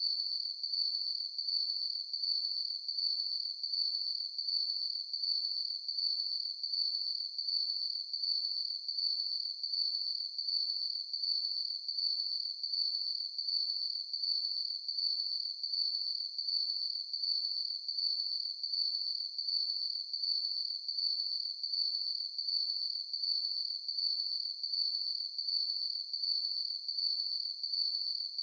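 Crickets chirping at night: a steady, high-pitched chirring that pulses in an even rhythm, about one and a half pulses a second.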